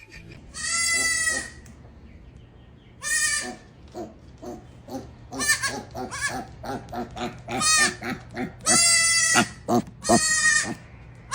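An animal calling: about five long, high calls of up to a second each, with a quick run of short calls between them.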